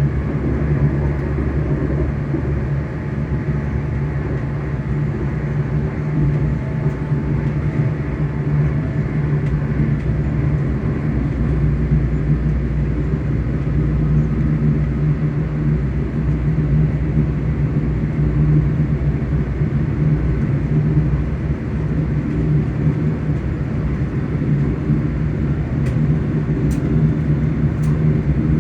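ScotRail Class 385 electric train's traction motors and running gear heard from on board: a steady hum with a strong low tone over a rumble, with a few faint clicks near the end.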